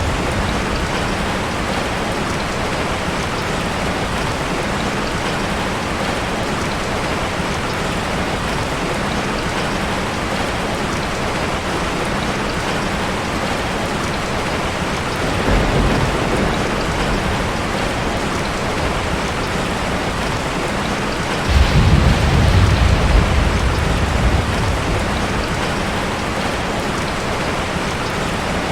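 Heavy rain falling steadily. A soft roll of thunder comes about halfway through, and a louder thunder rumble starts suddenly about three-quarters of the way in and lasts a few seconds.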